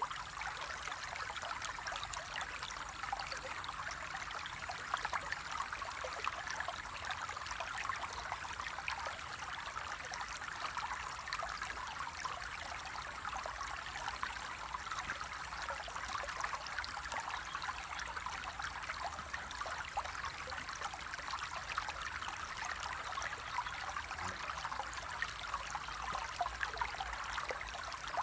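Stream water flowing steadily: a continuous babbling rush with fine little splashes through it.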